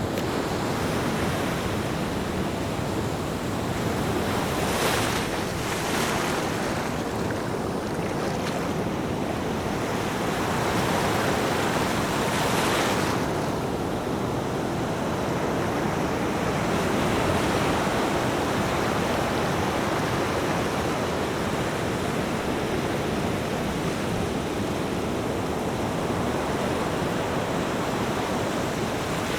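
Ocean waves breaking and washing up, a steady rush of surf with a few louder swells of hiss, including two close together about five seconds in and another around twelve seconds in. Some wind rumble on the microphone.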